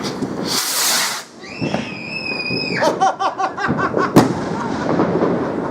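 Fireworks going off: a rushing whoosh about half a second in, then a high, steady shriek lasting over a second, a spell of crackling, and a sharp bang about four seconds in.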